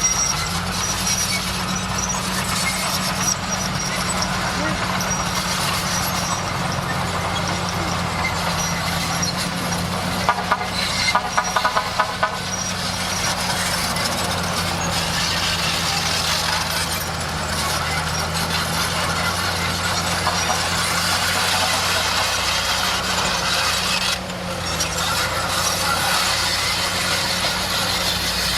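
Bulldozer's diesel engine running steadily under work, with a burst of rapid clanking about ten seconds in.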